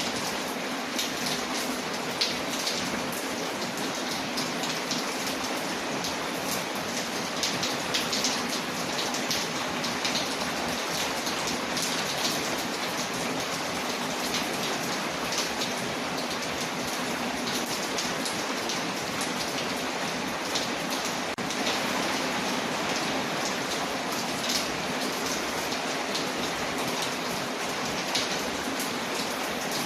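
Steady rain pattering on a window, layered with the scattered sharp crackles of a wood fire in a fireplace.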